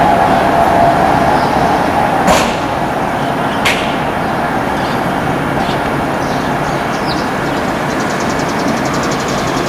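Train running on the rails alongside the platform: a loud, steady rushing rail noise with a steady tone that fades out about two seconds in, and two sharp clicks.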